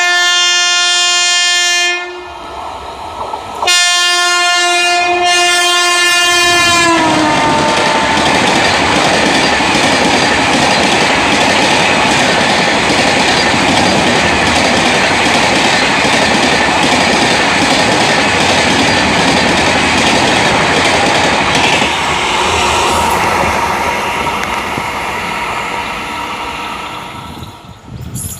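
WAP7i electric locomotive's horn sounding two long blasts, the second dropping in pitch as the locomotive passes at speed. Then its chair-car coaches rush past with a steady wheel rumble and rail clatter, fading near the end.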